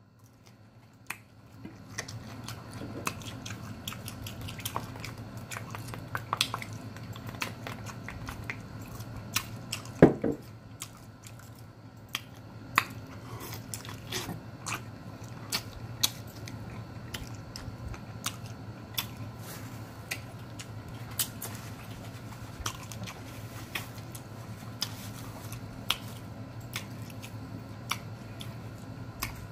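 Close-up chewing and biting of smoked chicken leg meat: a run of wet smacking and clicking mouth sounds. There is a short low vocal hum about ten seconds in, and a steady low hum underneath.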